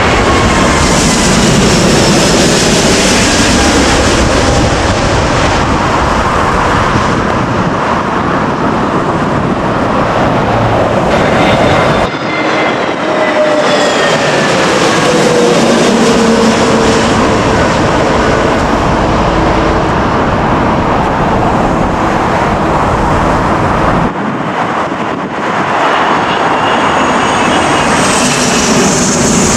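Jet airliners passing low overhead on final approach to land, a loud engine rush with whines that fall in pitch as each one goes by. The sound changes abruptly about a third and two-thirds of the way through, as one pass gives way to the next.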